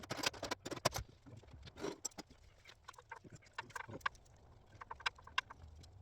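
Hand tools and metal engine parts clicking and clinking during an engine teardown, with a few short ringing metallic clinks in the second half over a faint low hum.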